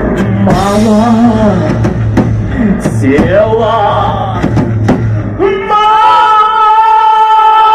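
Live rock band playing the end of a song: a wavering melodic line over drums and bass. About five and a half seconds in, the drums stop and one long held note rings on.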